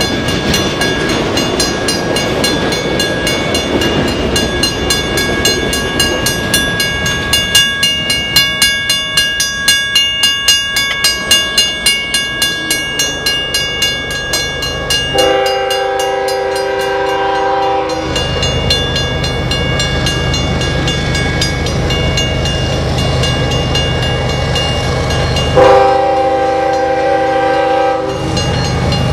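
Freight cars rolling past over a grade crossing, with wheels clacking in a quick rhythm and the crossing bell ringing. Then an approaching Canadian Pacific diesel locomotive sounds two long horn blasts, about ten seconds apart, over the low rumble of its engines.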